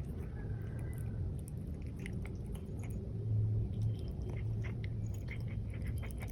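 A cat chewing and biting on its favourite plant, Indian acalypha (cat nettle): a string of small crisp crunches that starts about a second and a half in and grows busier toward the end.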